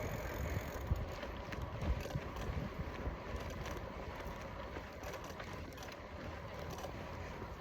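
Wind buffeting the microphone over the tyres of a Trek FX1 hybrid bicycle coasting along.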